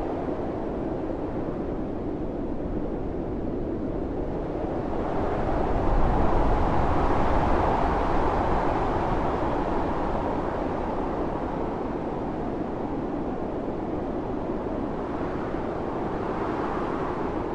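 Blizzard wind blowing hard and steadily, rising into a strong gust about five seconds in that eases off over the next several seconds, with a smaller swell near the end.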